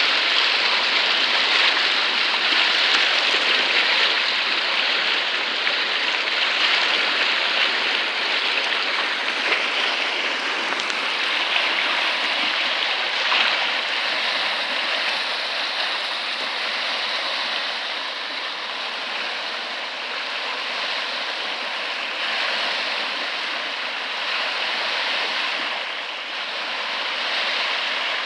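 Floodwater rushing steadily past a bridge, a continuous loud roar of flowing water that eases slightly toward the end.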